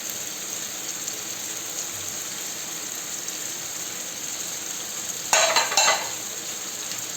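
Seafood and vegetables sizzling steadily in oil in a paella pan, with two short, louder bursts of noise a little past the five-second mark.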